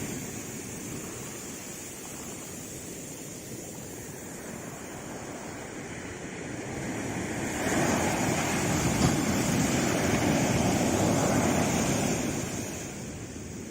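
Sea waves on a shore: a quieter wash, then a wave surges in about halfway through, holds for a few seconds and dies away near the end.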